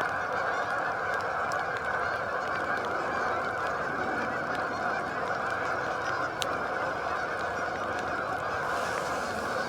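A huge flock of geese honking, thousands of calls merging into one steady clamour as the flock flies low overhead.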